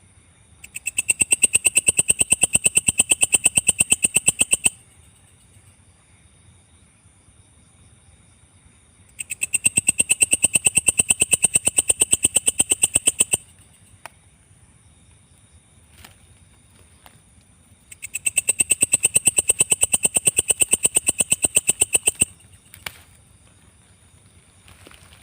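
Belalang kecek (Mecopoda katydid) calling: three bouts of about four seconds each of rapid, evenly spaced clicking pulses. Each bout starts up quickly and stops abruptly, with a faint steady high buzz in between.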